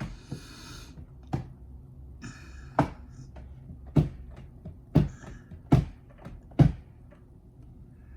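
A series of six sharp knocks or clunks, about a second apart and growing louder toward the end, with short bursts of rustling near the start.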